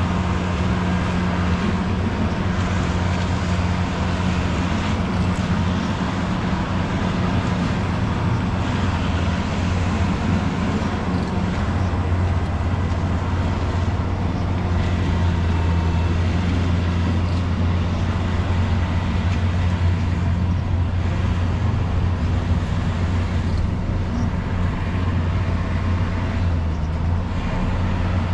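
Train running past with a steady low rumble and hum.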